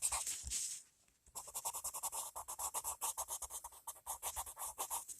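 Coloured pencil scratching quickly back and forth on paper as an area is filled in, in rapid even strokes, with a short pause about a second in.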